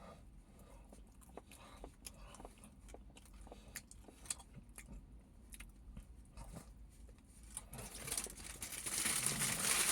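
Someone chewing and biting into a döner kebab in flatbread, with soft crunches and mouth clicks. Near the end a louder rustling builds up.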